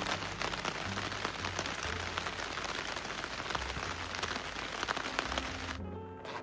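Heavy rain pattering on the roof of a camper van, heard from inside. It cuts off abruptly near the end.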